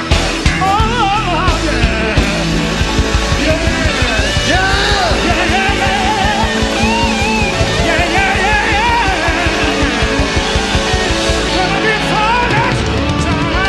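Live gospel quartet band music: a steady drum and bass beat with a lead line that bends and wavers in pitch over it.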